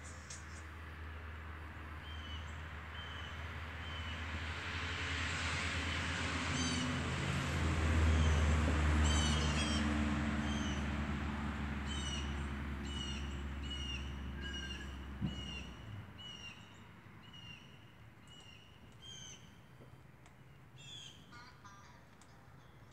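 Small birds chirping over and over, short high calls roughly once a second. Under them a low motor-like rumble grows to its loudest about eight seconds in, then stops suddenly about sixteen seconds in, just after a single click.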